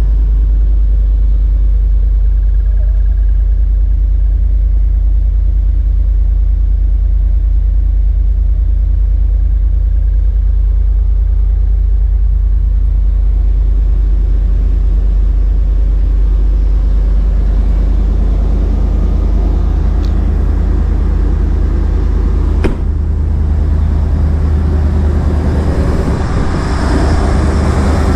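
1992 Chevrolet Silverado Sport's engine idling steadily on a cold start, with a deep, even rumble. There is a sharp click about 23 seconds in, and the engine sound grows fuller near the end.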